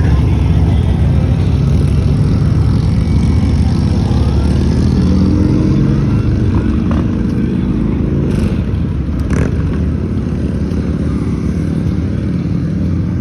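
Motorcycle engines running with a steady low rumble, a little quieter in the second half.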